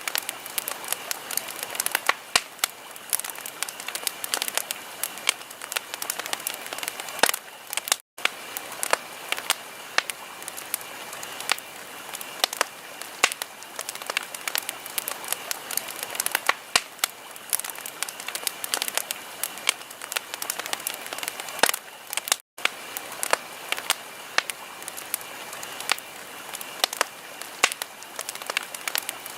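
Wood fire crackling in a fireplace: frequent sharp pops and snaps over a steady hiss, with two very brief dropouts, about eight seconds in and again a little past twenty-two seconds.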